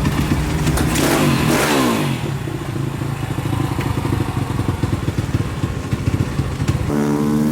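Pit bike engines: one passes with its pitch dropping steeply in the first two seconds, then an engine runs with a fast even beat, and another engine revs up near the end.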